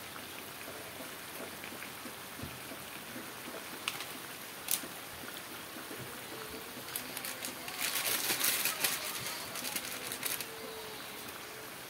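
Patin fish curry sizzling gently in a wok, a steady hiss with scattered pops and a denser stretch of crackling about eight seconds in, as the fish cooks down in the spice paste and releases its liquid.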